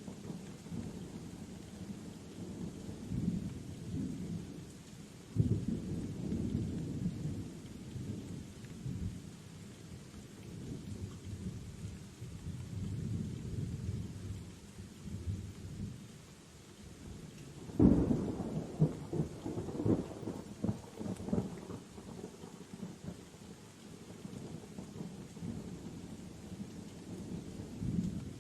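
Rainstorm with rolling thunder: low rumbles go on under a steady rain hiss. There are two sharper, louder thunderclaps, about five seconds in and a little past halfway, each rolling away over several seconds.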